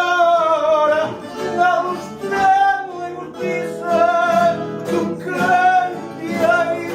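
Live fado: a male singer holds long notes with a wavering vibrato over a plucked Portuguese guitar and classical guitar accompaniment.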